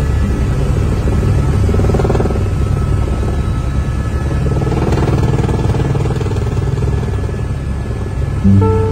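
Helicopter in flight: a steady, loud low drone of engine and rotor with a fast pulsing beat. Music comes in sharply just before the end.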